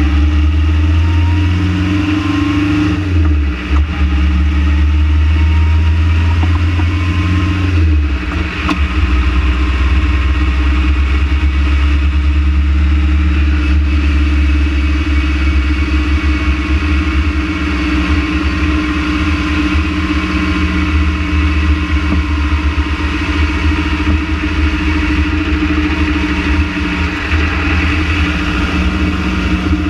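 Renault Trafic van engine running steadily with a deep hum, its low note shifting about eight seconds in; the owner is tracking down a vibration in this engine.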